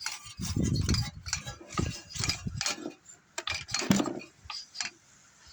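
Metal clinking and clattering from a vintage 3 hp Briggs engine, its cylinder head off, being handled and turned over by hand: a series of sharp irregular knocks and clicks. The engine turns stiffly, which the owner feels is something binding in the crankcase.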